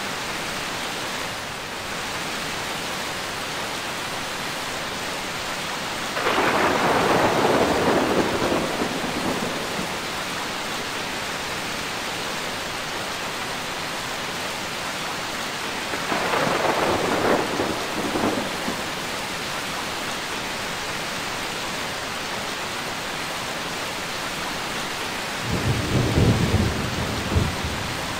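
Steady heavy rain hissing, with three peals of thunder: one about six seconds in, another around sixteen seconds, and a deeper, lower rumble near the end.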